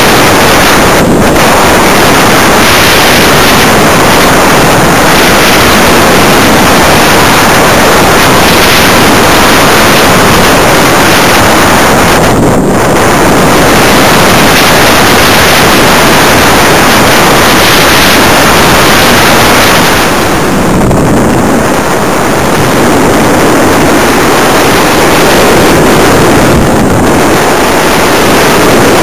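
Loud, steady rush of airflow over the microphone of an onboard camera on a flying RC electric glider, dipping briefly about twelve seconds in and again around twenty-one seconds.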